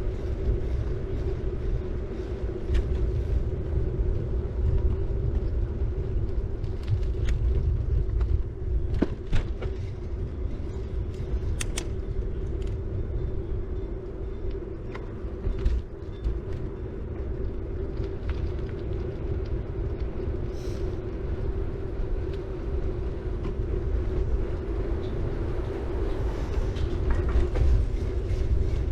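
City bike riding along, heard from a bike-mounted camera: steady wind rumble on the microphone over the hum of the tyres on the road, with a few sharp clicks and rattles from the bike.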